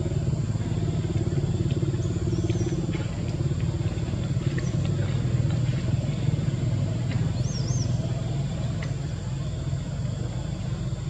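A steady low engine-like rumble, such as a motor idling, with two brief high chirps about two and seven seconds in.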